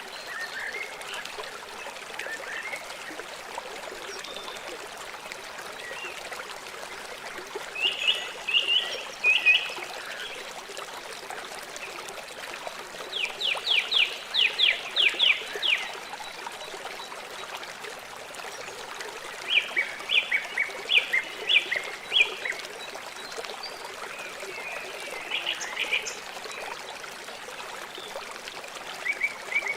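A river flowing steadily, with birds calling over it in short runs of quick repeated notes several times. The longest and loudest run comes a little before the middle.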